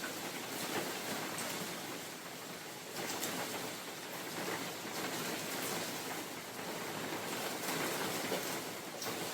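Steady rain falling in a forest, an even hiss with individual drops ticking now and then, swelling and easing a little in loudness.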